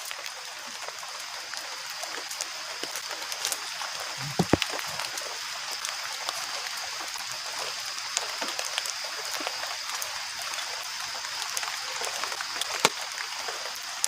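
Steady rain falling, an even hiss with a faint steady high-pitched whine running through it. There are a couple of sharp knocks, one about four seconds in and one near the end.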